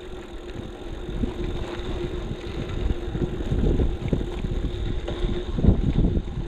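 Wind buffeting the microphone of an action camera on a moving bicycle, in gusts that grow stronger after about three seconds, over a steady hum.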